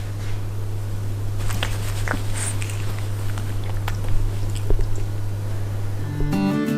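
Soft, scattered clicks and chewing-like mouth sounds over a steady low hum. Acoustic guitar music comes in near the end.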